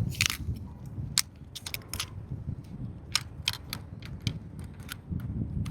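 Scattered sharp clicks and clacks of a magnetic selfie stick and tripod being folded up, its legs and telescoping sections pushed closed.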